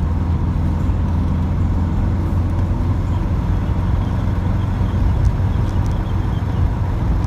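Volkswagen Type 2 bus driving at highway speed on a mountain climb: a steady low engine drone mixed with road and wind noise.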